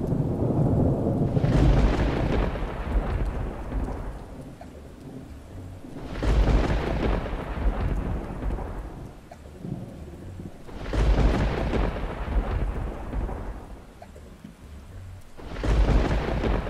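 Thunderstorm: four thunderclaps, about one every four to five seconds, each starting suddenly and rumbling away over a few seconds, with rain falling steadily underneath.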